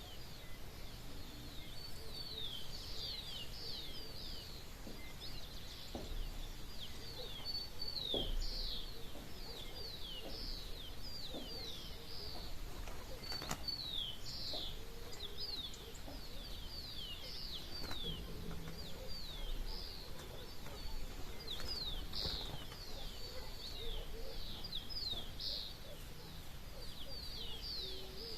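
Dawn chorus of many birds singing at once: a constant stream of quick, high, downward-sweeping chirps, with a few lower short calls underneath.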